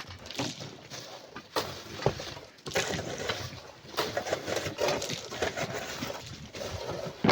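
Irregular knocks, scrapes and a few sharp clinks of sand and stone being dug and moved by hand.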